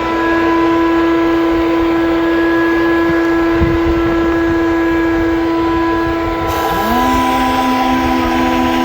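Steady machine hum made of several held tones. A second motor spins back up about seven seconds in and then holds a steady pitch.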